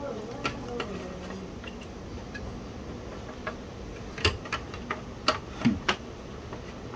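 Light clicks and taps of small plastic and metal parts being handled and fitted into a Commodore 1571 floppy disk drive during reassembly, scattered at first and bunching into a quick run of clicks about four to six seconds in.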